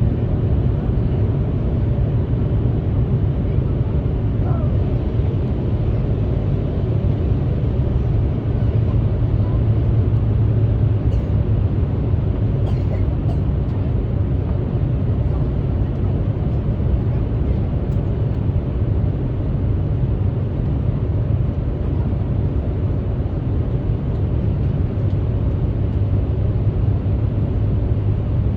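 Steady low rumble inside the cabin of a JAL Airbus A350 airliner in flight: engine and airflow noise, even and unbroken.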